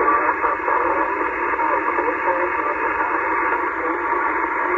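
Shortwave SSB receiver audio from a Yaesu FT-891 on the 17 m band: steady band-noise hiss cut off above and below like a voice channel, with faint, unreadable voices of calling stations buried in it.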